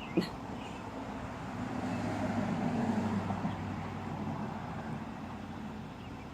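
A motor vehicle passing by: its low engine and road noise swell up over the first three seconds and then fade away. A single sharp click comes just at the start.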